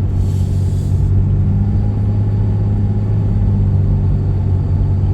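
Steady low rumble of a car driving, heard from inside the cabin, with engine and road noise. A brief hiss sounds in the first second.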